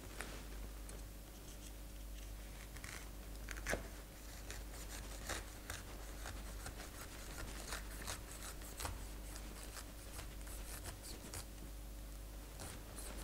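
Small knife cutting and scraping through pineapple flesh and rind: faint, scattered crisp scrapes and ticks, over a low steady hum.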